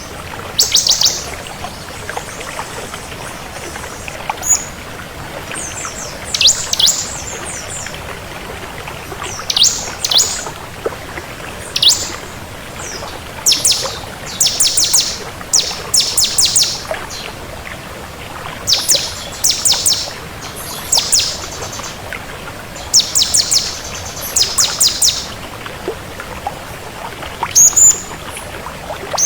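Ciblek kristal (bar-winged prinia) singing in short, fast bursts of high repeated chirping notes, a phrase every one to two seconds, over a steady background hiss.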